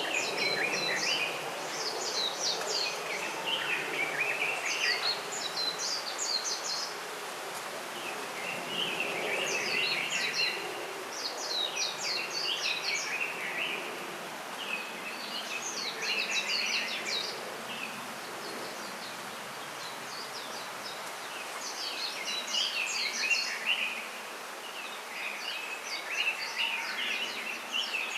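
Small songbirds chirping in bursts of rapid high twittering notes every couple of seconds, over a steady background hiss.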